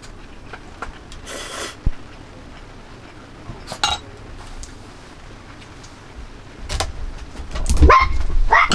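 Dishes and cutlery clinking a few separate times, as in camp cooking or eating. Near the end a dog starts barking, several barks in quick succession, the loudest sound here.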